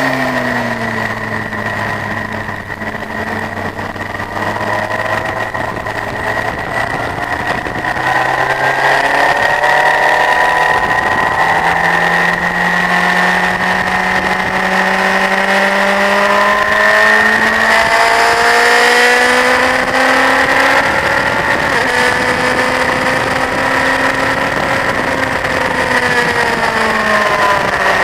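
Honda CBF1000's inline-four engine lapping a circuit. The pitch falls at first as the bike slows, holds low for several seconds, then climbs as it pulls through the gears, dipping briefly at each change, with a steady hiss of wind throughout.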